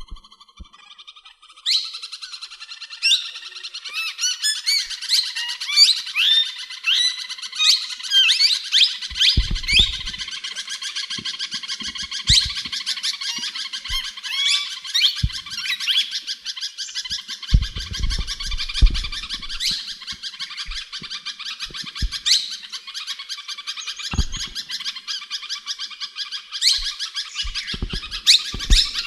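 Parrot chirping and squawking without a break, in quick rising and falling chirps. A few soft low thumps come around the middle and near the end.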